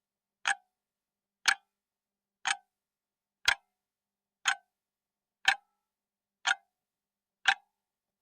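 Countdown-timer sound effect: a clock ticking once a second, eight even, crisp ticks with complete silence between them, counting down the seconds left to answer.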